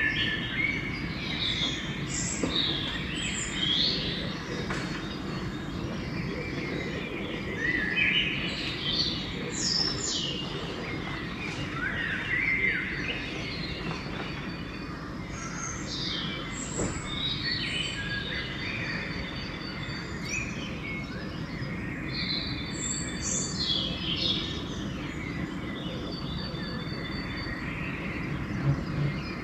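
Pre-dawn chorus of several songbirds: many overlapping chirps, whistles and short trills from different birds, over a steady low background rumble.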